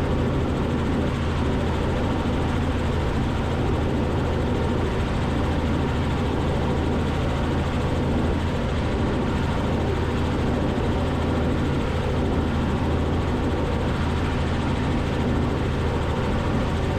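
Robinson R44 helicopter in flight: a steady drone of the piston engine and rotors, heard turned down through the intercom feed.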